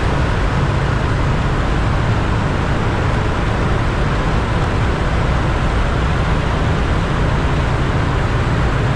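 Steady, noisy din of a motorcycle riding at about 40 km/h through a road tunnel: engine, tyre and wind noise mixed with surrounding traffic, trapped and echoing in the enclosed tube.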